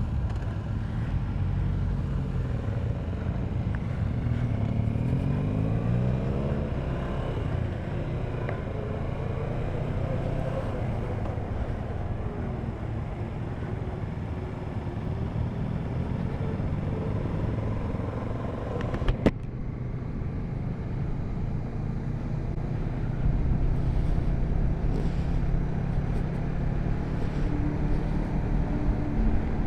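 Motorcycle engine running under way with wind rush, its pitch rising and falling several times in the first few seconds as the rider works the throttle and gears through bends, then holding steady. A single sharp click comes a little past the middle.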